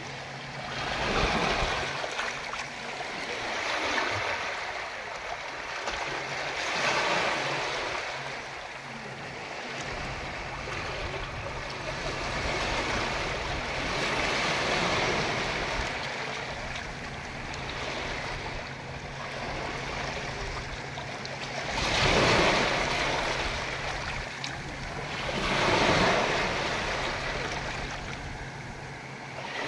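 Ocean waves washing ashore, the surf swelling and easing every few seconds, with a few louder breaks, the loudest about two thirds of the way through and near the end.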